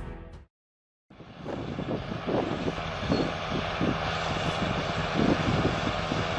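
Heavy diesel machinery, tractor and excavator engines, running steadily with uneven pulses. It starts about a second in, after a short break of silence.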